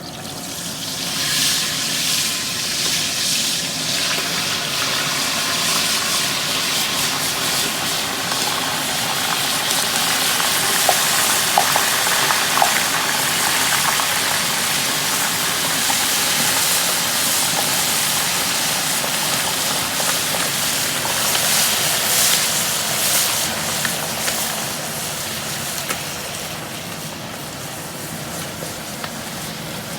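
Hot oil in a turkey fryer pot sizzling and bubbling hard as a seasoned whole turkey is eased down into it, with scattered crackling pops. The sizzle swells within the first couple of seconds and eases a little near the end.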